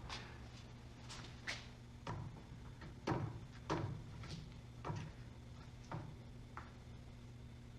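Irregular knocks and clinks, about ten of them, the loudest a little after three seconds in, over a steady low hum: tools and parts being handled during work on the pickup.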